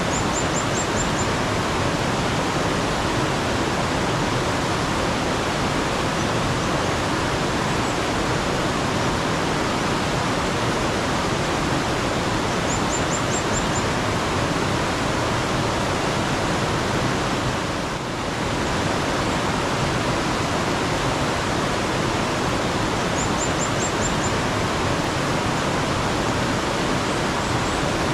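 Steady rushing of flowing water in a mountain stream. A small bird gives a quick run of five or six thin, high chirps three times: at the start, about 13 s in, and about 23 s in.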